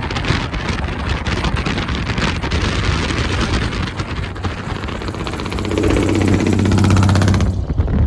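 A motor vehicle's engine running close by with wind buffeting the microphone; about five and a half seconds in the engine note grows louder and holds for about two seconds, then the sound cuts off abruptly shortly before the end.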